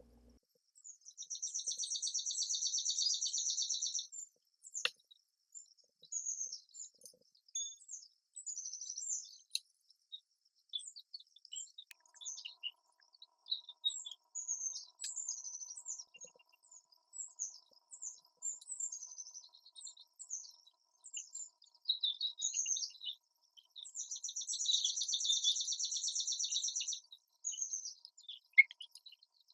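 Songbirds chirping and twittering in short, high notes. A rapid buzzy trill lasting about three seconds comes twice, about a second in and again near the end.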